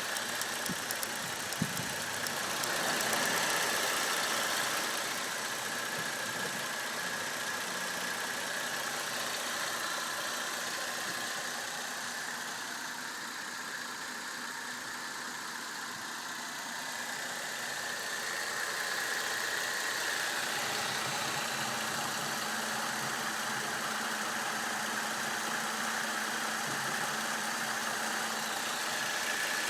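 Holden VE Commodore SV6's 3.6-litre LY7 V6 engine running steadily, with a noise that the owner questions as possible engine knocking.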